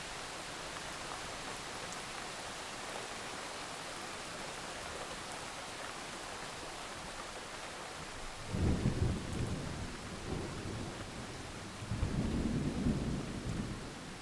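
Steady rain hissing, with two low rolls of thunder rumbling in over it, the first over halfway through and the second near the end, each lasting a couple of seconds.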